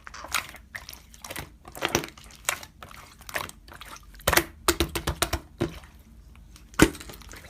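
Slime being squished and pressed by hand, giving an irregular run of wet clicks and pops, with one sharper pop near the end.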